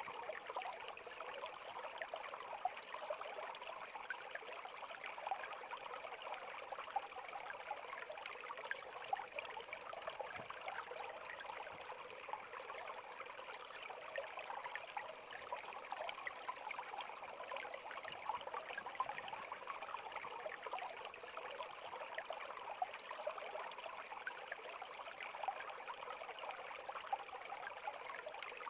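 River water flowing steadily over rocks, a constant rush with many small splashes and trickles.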